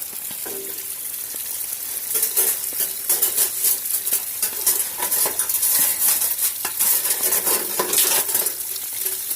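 Runoff water splashing and trickling down over rocks, with many small irregular splashes, louder from about two seconds in.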